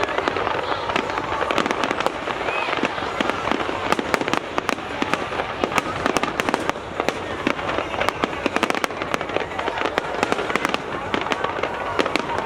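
Aerial fireworks display going off continuously: rapid, overlapping bangs and crackling bursts, many per second.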